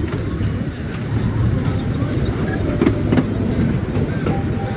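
Miniature park train running along its track, heard from on board: a steady low rumble from the carriages with a few sharp knocks about three seconds in.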